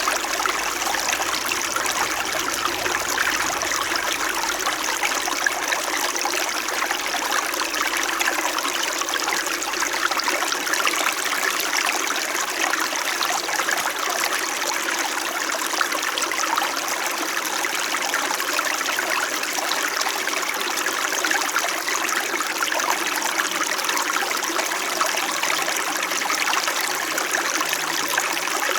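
Small shallow stream flowing and trickling over stones, a steady babbling that does not change.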